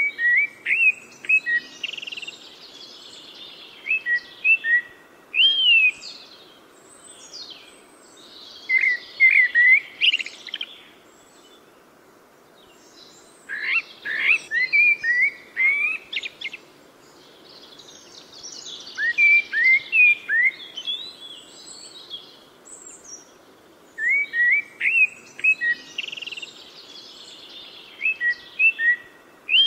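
Birds singing: short bursts of quick chirping notes repeated every four to five seconds over a faint steady background hiss.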